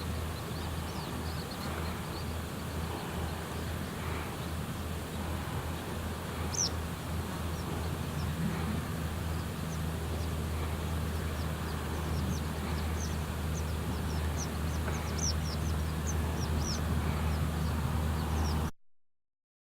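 Many short, thin, high-pitched bird calls, few at first and coming thicker in the second half, over a steady low rumble. All sound cuts off suddenly near the end.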